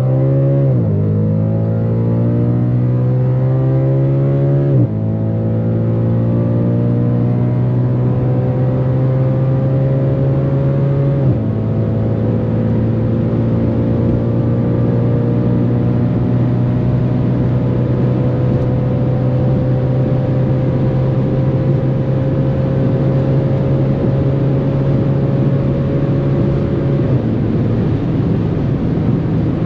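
Audi RS4 B8's 4.2 FSI naturally aspirated V8, with straight-piped exhaust, pulling hard under full acceleration. The engine note rises, drops with upshifts about five and eleven seconds in, then climbs slowly and steadily at high speed in the top gears, changing near the end.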